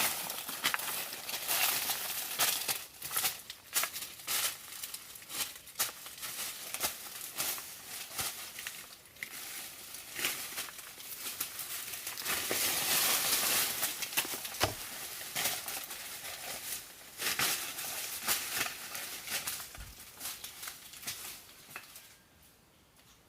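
Rustling and crackling with many sharp snaps and clicks, loudest and densest about twelve to fourteen seconds in, easing off near the end.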